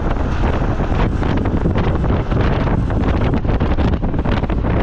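Wind buffeting the microphone of a passenger riding a moving boda boda motorcycle taxi, a loud, unsteady rumble with motorbike and traffic noise beneath it.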